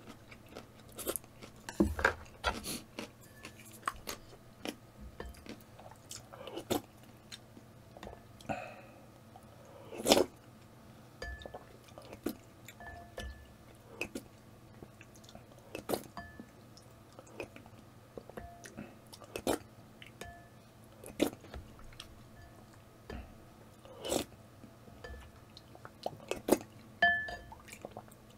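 A person chewing and eating instant ramen close to the microphone, with sharp mouth clicks and smacks every second or two.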